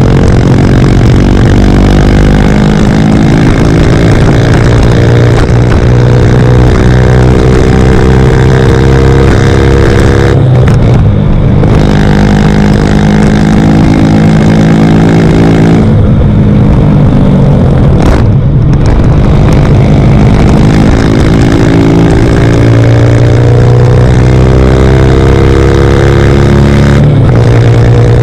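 CFMoto Papio 125 single-cylinder engine with a Yoshimura RS-9 exhaust, pulling hard at wide open throttle, its pitch climbing in long runs. Three times the note breaks off briefly and drops, about a third of the way in, a little past the middle, and near the end, before it climbs again.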